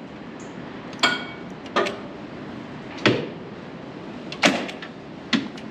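Five sharp metallic clicks and clanks at uneven intervals from a New Holland 8770 tractor that will not crank or start. The first one rings briefly. The tractor makes only these clicks, which the operator takes for a poor electrical connection.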